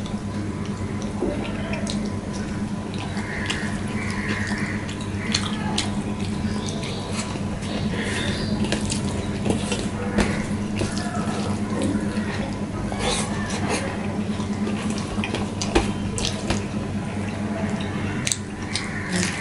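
A person eating rice and curry by hand, chewing with wet mouth sounds and frequent lip-smacking clicks, over a steady low hum.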